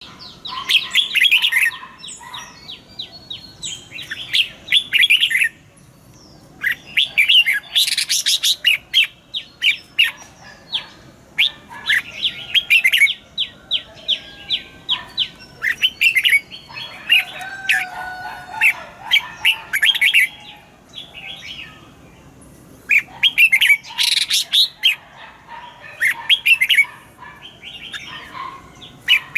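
Red-whiskered bulbul singing: bursts of quick, bright chirping phrases repeated with short pauses between them.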